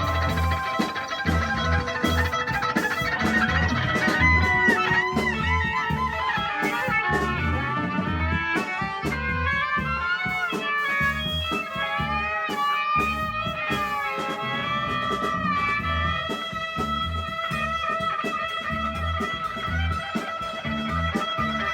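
A band playing live with no vocals: an electric guitar bends and wobbles its notes over a steady bass line and drums, then settles into long held tones near the end.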